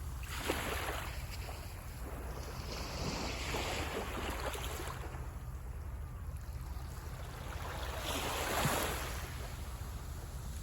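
Sea waves washing onto a beach, swelling and falling back three times, the last surge the loudest, over a steady low rumble.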